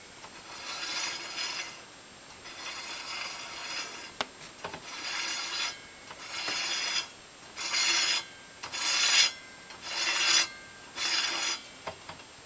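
Repeated back-and-forth scraping strokes, about eight of them, of metal parts sliding against each other on a DeWalt DW7491 table saw as its blade alignment is checked with a dial indicator; a single sharp click about four seconds in.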